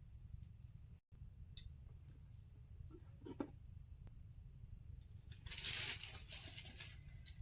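Low steady hum with a few faint clicks and a brief rustle about six seconds in.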